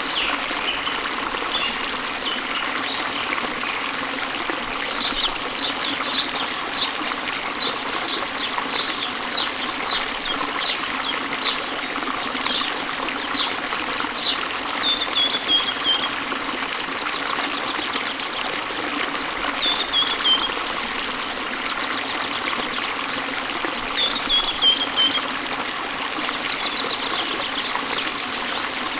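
Waterfall water running steadily, with a bird singing over it: a run of short high chirps for several seconds, then a few brief falling trills.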